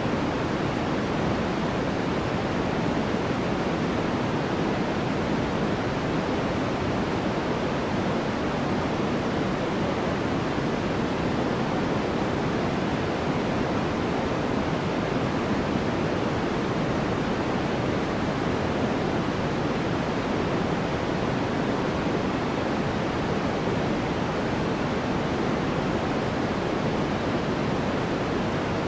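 Steady white-noise sleep track: a constant, even hiss that never changes. Most of its energy sits in the low-middle range and it thins out toward the top, so it sounds deeper and softer than pure white noise, closer to pink noise.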